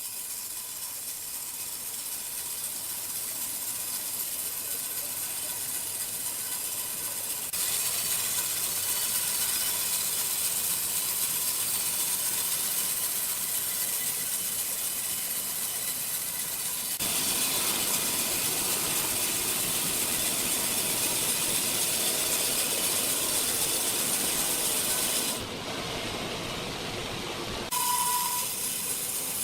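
Sawmill machinery running: steady mechanical noise with a strong hiss, shifting abruptly in level several times, with a short high beep near the end.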